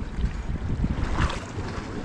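Wind buffeting the microphone in a low rumble, over the wash of surf on a rocky shore. The rumble eases about two-thirds of the way through.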